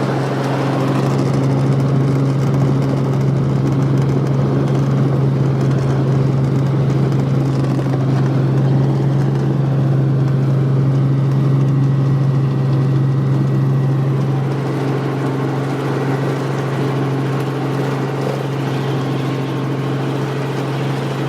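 Helicopter engine and rotor running steadily, a constant low droning hum with overtones, as heard from aboard.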